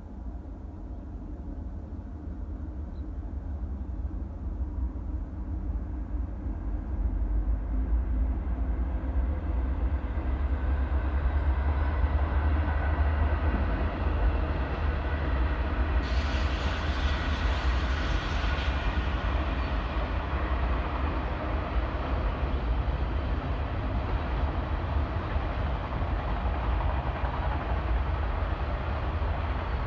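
Train passing: a low rumble that builds over the first several seconds, then holds steady, with a brief burst of higher hiss a little past halfway.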